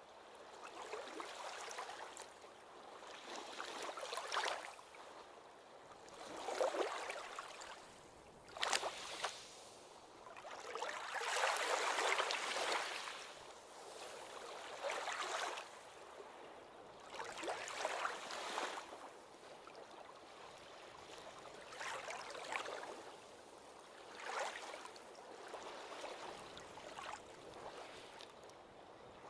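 Small ocean waves washing in and breaking on the shore, a surge of hissing, splashing water every two to three seconds with almost no deep rumble.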